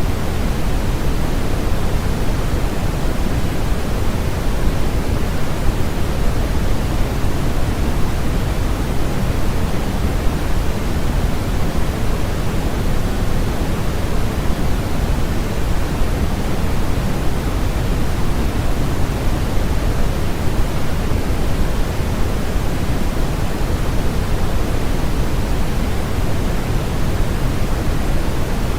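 Steady, unchanging synthetic noise from a sleep-aid noise track, an even rush with its weight in the low end, closer to pink noise than bright white hiss.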